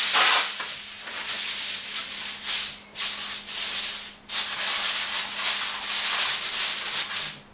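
Aluminum foil crinkling: a sheet is pulled off the roll, then spread and pressed down over the rim of an aluminum baking pan, a continuous crackling rustle with two brief pauses about three and four seconds in.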